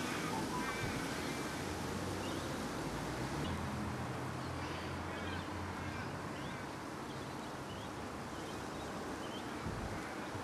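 Steady wind noise on the microphone, with a low hum that fades over the first half and faint, short high chirps through the middle.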